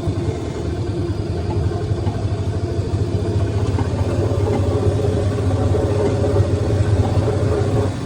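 An engine idling steadily, with a low, rapid, even pulse.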